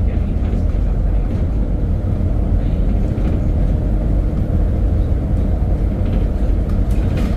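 Steady low rumble of a vehicle travelling at road speed: engine and road noise with no changes.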